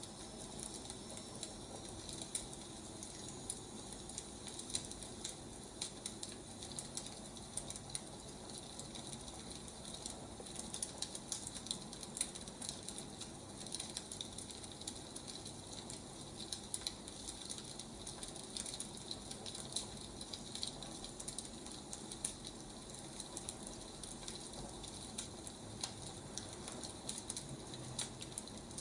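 Burning firewood crackling: a steady hiss with frequent small pops and snaps scattered irregularly throughout.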